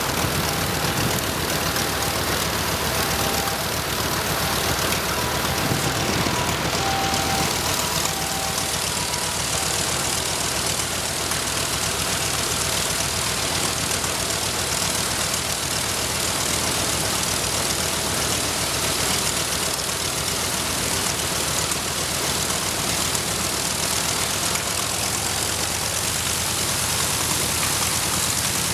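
Nakajima Sakae 21 fourteen-cylinder twin-row air-cooled radial engine of an A6M5 Zero fighter, running steadily and loudly on the ground.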